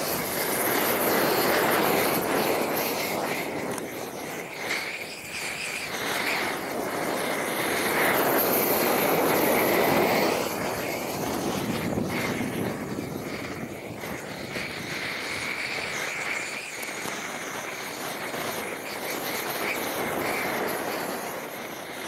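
Homemade gas roofing torch burning with a steady roar that swells louder twice and eases off, as it melts bitumen torch-on roll roofing down onto the roof.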